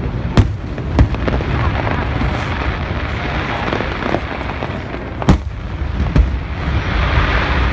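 Fireworks going off: sharp bangs at irregular intervals, the loudest about five seconds in, over a continuous rumble and crackle.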